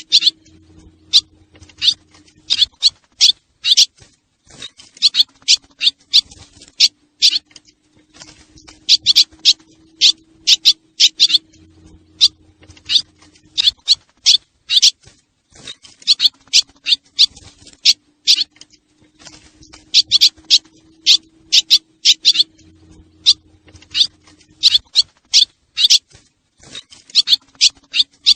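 Recorded swallow calls played as a looped lure sound: fast runs of short, high twittering chirps in bursts, the same sequence repeating about every 11 seconds, over a faint steady low hum.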